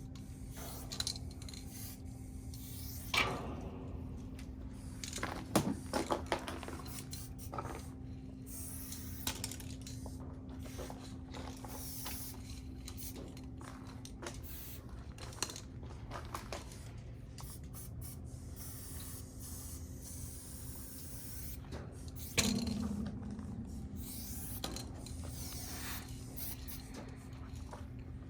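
Aerosol spray paint cans hissing in on-and-off stretches, with a few sharp clacks from handling the cans, over a steady low hum.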